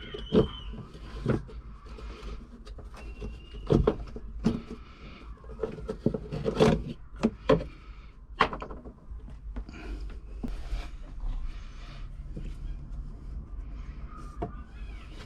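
Irregular knocks and clicks of parts and tools being handled, busiest in the first half, with a short high squeak about three seconds in.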